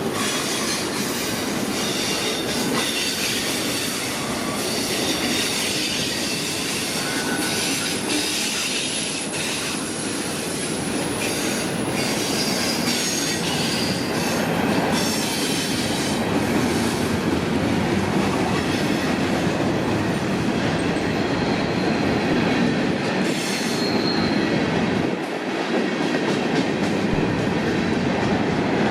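Freight cars of a manifest train rolling past, their steel wheels rumbling steadily on the rails, with now and then a thin high wheel squeal.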